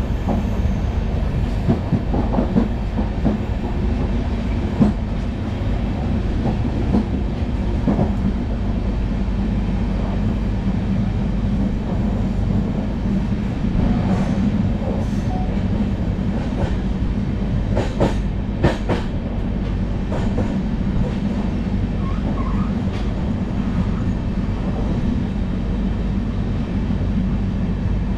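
Passenger coach of an express train running at speed: a steady rumble of wheels on the track with scattered clicks and knocks over the rail joints, and a quick run of sharp clicks about two-thirds through.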